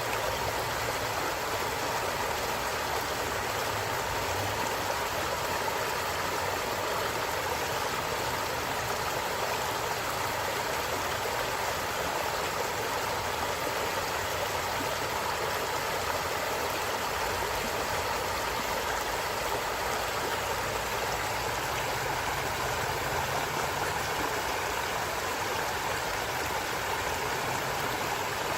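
A stream running steadily, an even, unbroken rush of flowing water.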